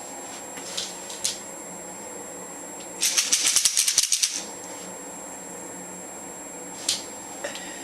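Large dried tropical bean pod shaken like a rattle, its seeds rattling in one rapid burst of just over a second about three seconds in. A few single clicks from the pod come before and after.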